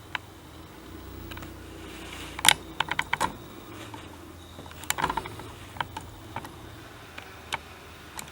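Irregular light clicks and knocks of small hard objects, in small clusters with the loudest about two and a half seconds in, over a steady low hum.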